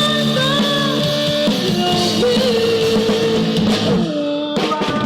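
Rock music: electric guitar and drums with a sung melody line. It drops out briefly near the end.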